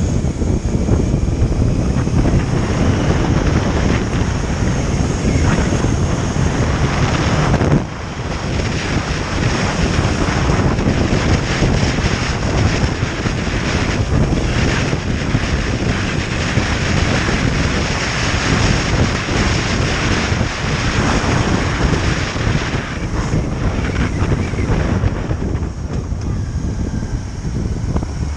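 Wind buffeting the microphone on a moving motorcycle, with the engine and road noise running underneath. The wind noise eases briefly about eight seconds in, then picks up again.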